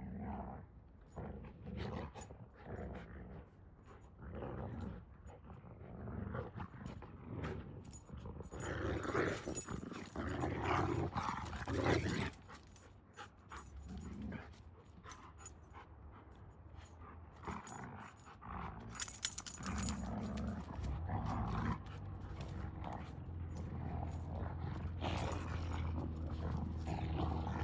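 A dog growling on and off, in uneven bursts.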